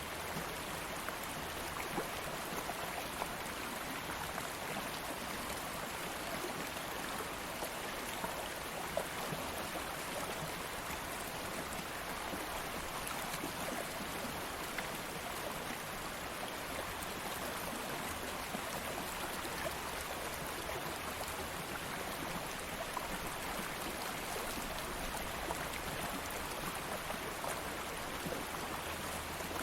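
Stream of water flowing steadily, a continuous rushing babble with small splashes and drips scattered through it.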